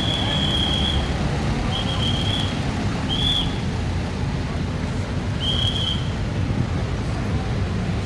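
Steady rumble of road traffic passing on a highway, with a thin high-pitched tone sounding four times in short, unevenly spaced pieces.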